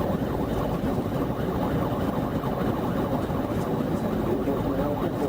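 Car engine and road noise during a high-speed car chase, a steady rush without breaks.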